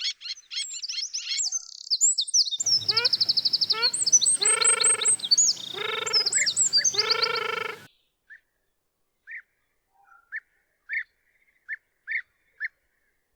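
Several birds calling and singing together: rapid chirps, trills and sliding whistles, with three longer, lower calls near the middle. After about eight seconds only scattered short chirps remain.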